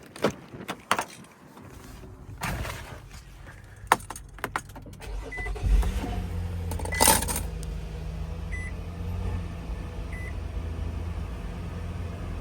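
2013 Nissan Pathfinder's V6 on a cold start. Keys jangle and clicks come first, then the engine cranks, catches about halfway through with a brief flare, and settles into a steady idle. A dashboard chime beeps about every second and a half as it starts.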